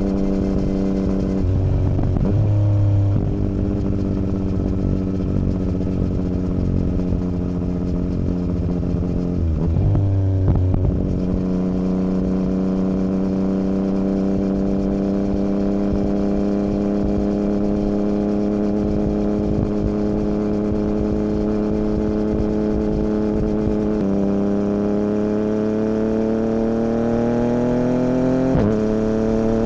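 2017 Yamaha MT-09's three-cylinder engine through an Akrapovic Racing Line carbon full exhaust with the dB killer removed, running loud at a steady engine speed, with short breaks in the note about two and ten seconds in. From about three-quarters through it pulls up steadily in pitch, with a gear change and a brief drop near the end before it climbs again.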